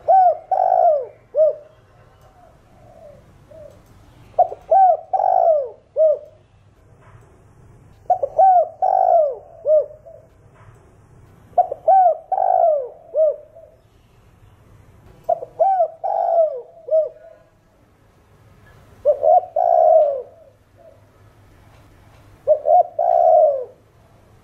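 Spotted dove cooing its calling song: a phrase of three or four coos, the last one short, repeated seven times about every three and a half seconds.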